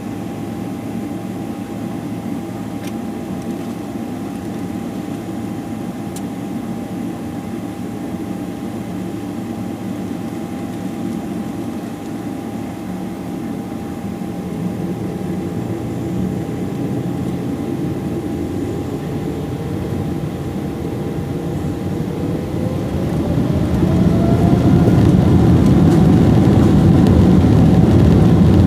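Boeing 777-300ER's GE90-115B jet engines heard from inside the passenger cabin, running steadily at low power with a constant whine and rumble. About twenty seconds in they spool up, the whine rising in pitch and the rumble growing louder as takeoff thrust is set.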